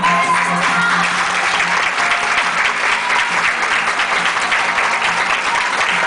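Audience applauding over a pop dance track that keeps playing underneath.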